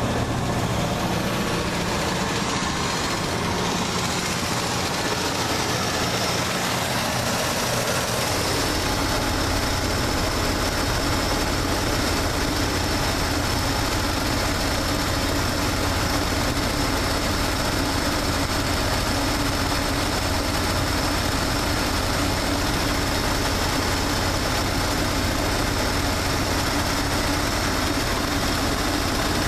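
Chevrolet 350 small-block V8 idling steadily as it warms up from a cold start, near 170–180 degrees on the gauge. About eight seconds in the sound changes: a deeper rumble and a faint high whine join.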